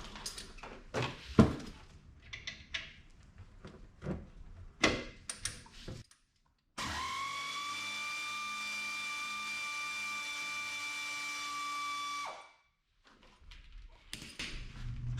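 Clicks and knocks of tools on metal, then a cordless power tool's motor runs with a steady whine for about five seconds and stops abruptly, backing out a 13 mm brake caliper bolt.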